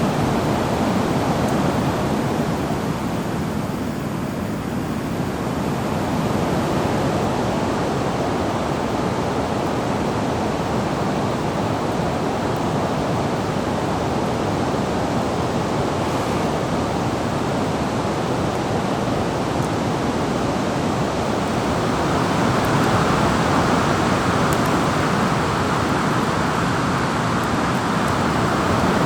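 Steady rushing noise of water, with no distinct drops or splashes. It swells a little louder about two-thirds of the way through.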